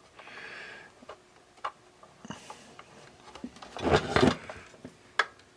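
Small clicks, taps and light scraping of a radio antenna and small parts being handled and fitted to a radio case, with a louder short clatter about four seconds in.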